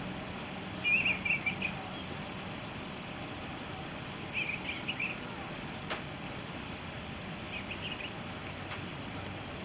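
A bird chirping in three short bursts of rapid high chirps, a few seconds apart, over a steady background hiss.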